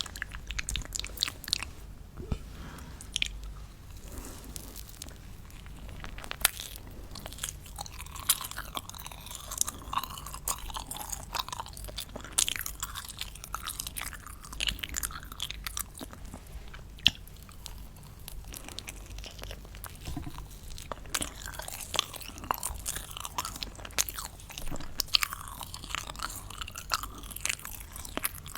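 Close-miked crunching and chewing of crunchy candy: dense, irregular crackles and sharp clicks as the pieces are bitten and broken up.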